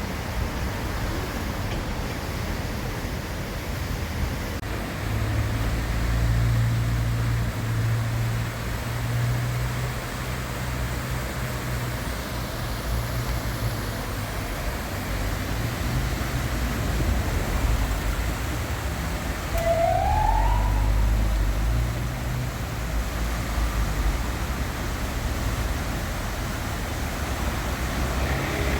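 City street traffic: a steady low rumble of passing vehicles, heaviest through the middle, with one short rising whoop-like tone about two-thirds of the way through.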